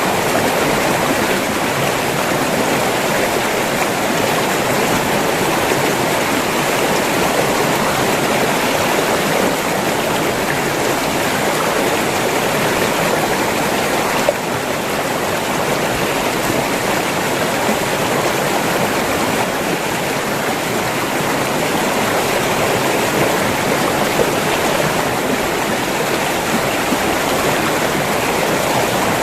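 River water flowing in a steady, unbroken stream.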